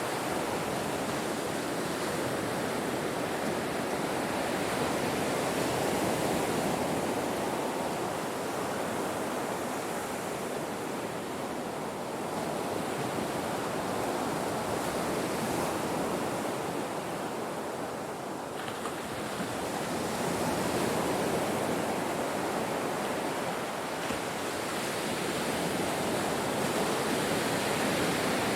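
Ocean surf washing on a shore: a continuous rush of breaking waves that swells and eases slowly every several seconds.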